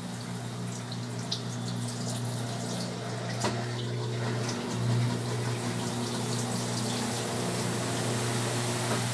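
Brastemp Tira Manchas Pro 12 kg washing machine mid-cycle: a steady electric hum with water running and splashing inside. There is a click about three and a half seconds in, after which a higher faint tone joins the hum.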